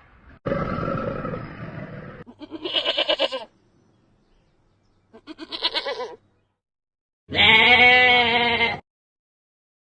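An animal bleating: three separate wavering calls, the last the longest and loudest, after a rougher, lower sound in the first two seconds.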